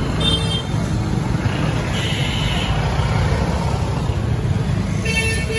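Street traffic noise: a steady rumble of passing vehicle engines, with brief horn-like tones just after the start and again near the end.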